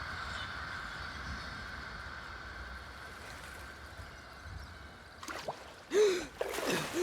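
Rushing water ambience fading slowly down, then about five seconds in a few sudden louder sounds, among them short rising-and-falling vocal calls, the loudest about a second later.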